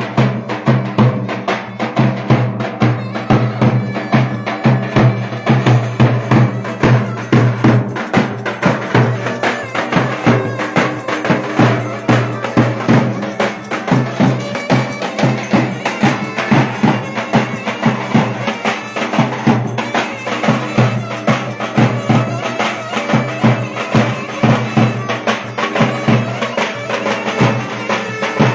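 Instrumental Turkish folk dance tune (oyun havası) of the Ereğli–Alaplı area: a melody over a steady low drone, driven by a quick, even percussion beat.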